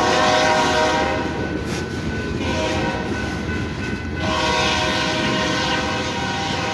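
BNSF freight locomotive's multi-chime air horn blowing a horn show: a blast that breaks off about a second in, another from about two and a half seconds, and a long blast from about four seconds on, over the steady rumble of the passing freight train.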